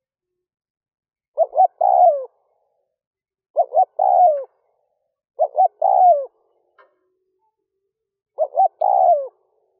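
Spotted dove (Streptopelia chinensis) cooing: four calls about two to three seconds apart, each two short notes followed by a longer note that falls in pitch.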